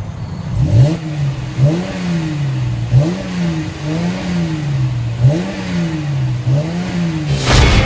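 2014 Mercedes-Benz C350's V6 engine and exhaust idling and revved in about six short throttle blips, roughly one a second, each quickly dropping back to idle.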